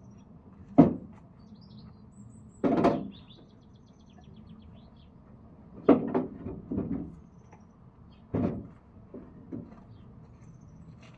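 A series of hard knocks and thuds of firewood being handled, with a cluster of several knocks around the middle. Birds chirp faintly.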